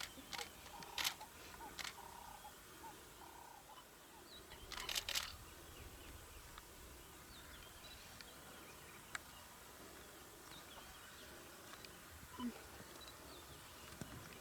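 Quiet outdoor ambience broken by a few sharp clicks in the first two seconds, a short rattle of clicks about five seconds in, and a single click a little after nine seconds.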